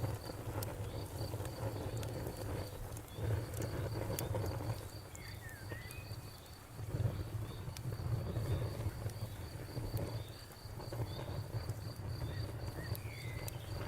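Campfire crackling with scattered sharp pops over a low steady rumble, while crickets chirp steadily at about three to four pulses a second.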